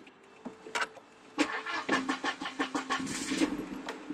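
Volvo 940's 2.3-litre B230 turbo four-cylinder on a cold start: a couple of clicks, then the starter cranks it over in rapid even strokes for about two seconds before it catches and settles into a steady idle.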